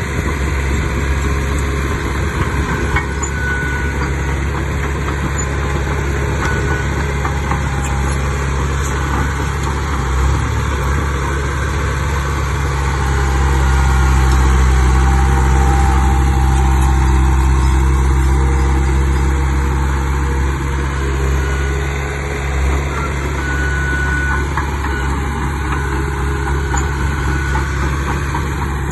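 Komatsu D31 bulldozer's diesel engine running steadily while working, growing louder for several seconds in the middle as it takes on load, then settling back.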